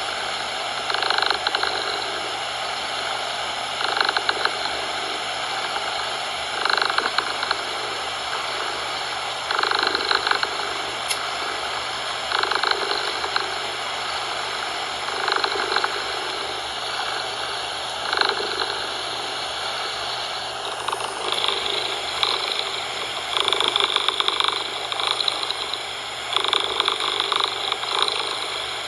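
Domestic cat purring in slow, even swells about every three seconds, over a steady hiss of background noise that brightens slightly about two-thirds of the way through.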